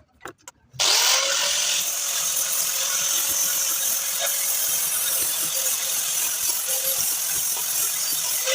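A few light clicks, then about a second in a handheld electric power tool spins up and runs steadily, cleaning the mating face of an exhaust flange on a catalytic converter.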